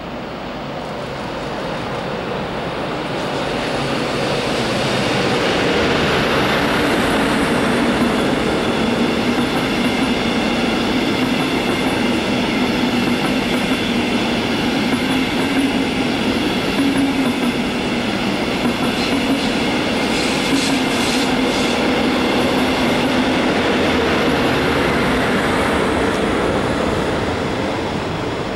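Locomotive-hauled train of double-deck coaches passing at speed, with the rumble of wheels on rails. It grows louder over the first few seconds, runs steadily, and eases off near the end.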